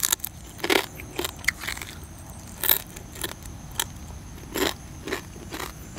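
A person chewing crunchy food: a string of sharp crunches, roughly one every half second, with short pauses between runs.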